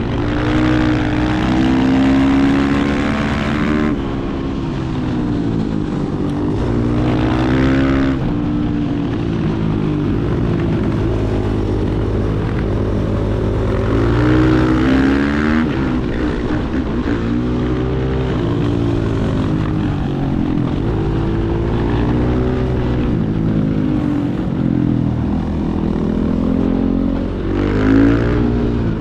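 Supermoto motorcycle engine at riding speed, the revs climbing and dropping repeatedly as it accelerates and shifts through the gears, with a steady rush of wind and road noise underneath.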